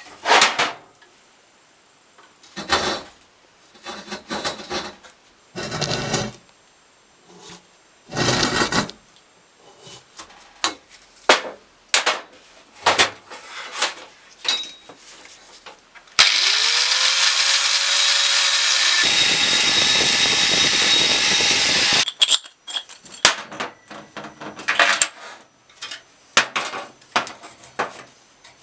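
Workshop handling sounds: metal parts and tools knocking and clattering at irregular intervals. About halfway through, a power tool spins up with a rising whine and runs loudly for about six seconds before cutting off.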